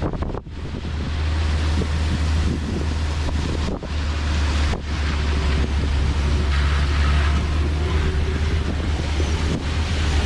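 Wind buffeting the microphone in an open-top Moke on the move, over a steady low rumble of the car and road. The sound dips briefly three times, about half a second in and twice near the middle.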